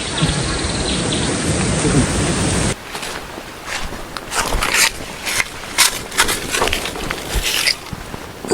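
A steady hiss that cuts off suddenly about three seconds in, followed by a run of sharp clinks and knocks from camp cookware being handled.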